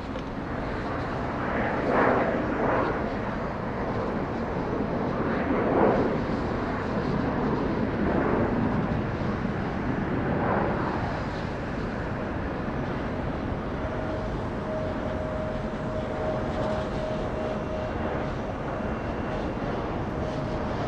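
Jet airliner engines running: a broad rush that swells several times, with a steady whine coming in about two-thirds of the way through.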